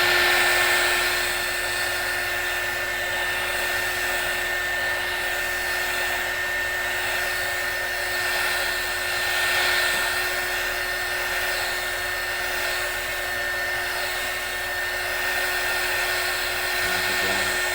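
Hot air gun running steadily: a constant fan whine over the rush of blown air, heating an old headlamp film sticker to soften it for peeling.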